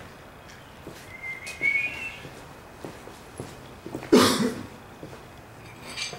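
A short wavering whistle about a second in. Then, about four seconds in, a single loud short burst, the loudest sound here, with a few faint knocks around it.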